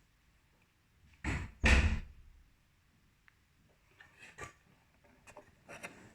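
Two heavy knocks about half a second apart, the second the louder and deeper, then a few light clicks and taps.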